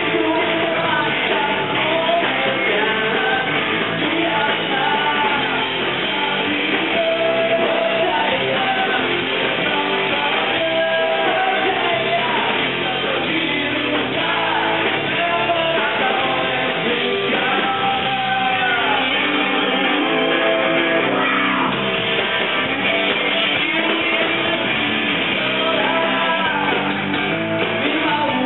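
Rock band playing live: a singer's voice over guitar in a dense rock backing, steady and loud throughout.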